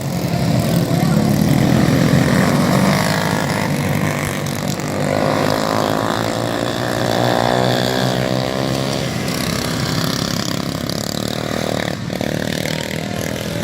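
Dirt-track racing motorcycle engines running hard. About midway one comes through, its pitch rising and then falling as it passes.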